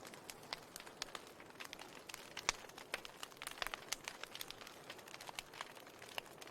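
Wood fire burning in a fireplace, crackling with irregular sharp pops over a soft steady hiss; the loudest pop comes about two and a half seconds in.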